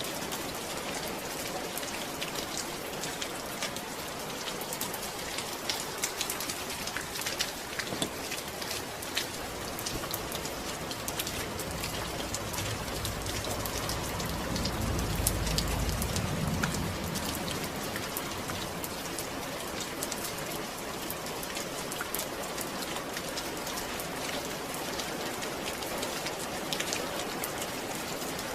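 Steady rain falling, with many fine drop ticks over an even hiss. A low rumble swells and fades about halfway through.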